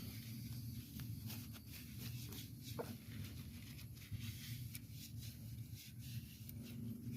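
Faint rubbing and light scratching of a rag buffing dried metal polish off a dirt-bike part, over a steady low hum.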